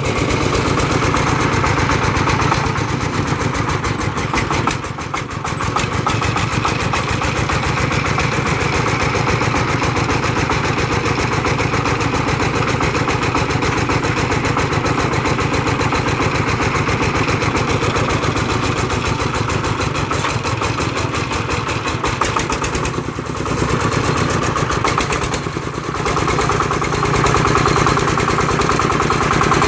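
Công nông farm truck's single-cylinder diesel engine running steadily as the truck drives along, with a rapid even chugging. Its level dips briefly about 5 seconds in and again around 23 and 25 seconds.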